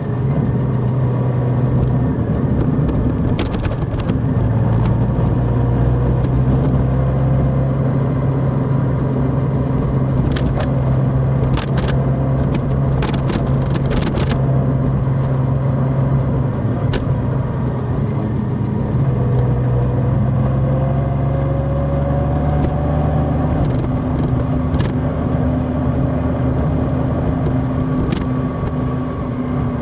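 Large motorcycle engine running steadily while riding, its pitch drifting slowly with speed, with a few short sharp clicks now and then.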